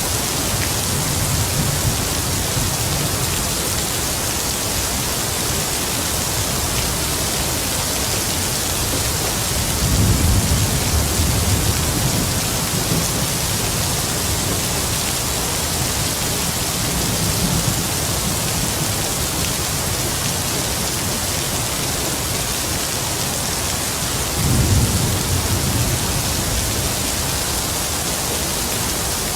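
Heavy rain falling in a steady hiss, with distant thunder rumbling low underneath; two louder rolls of thunder swell about a third of the way in and again near the end.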